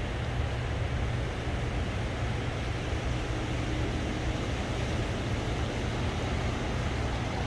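Steady rushing noise of water pouring through the open gates of a river dam, an unbroken deep rumble with hiss on top.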